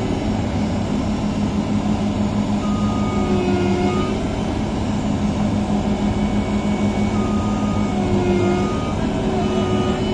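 Crawler combine harvester's diesel engine running hard under load, with whining tones that swell and fade every second or two, as it strains in reverse to drag itself out of deep mud.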